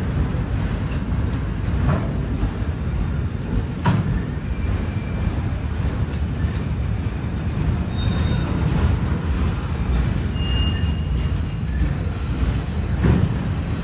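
Freight train of enclosed autorack cars rolling past: a steady low rumble of steel wheels on the rails, with an occasional clank and a few brief, faint wheel squeals.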